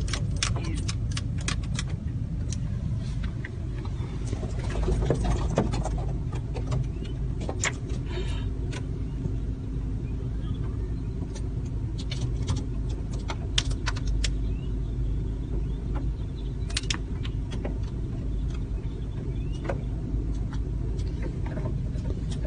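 Car engine running, heard from inside the cabin as a steady low rumble, with a scattering of short sharp clicks throughout.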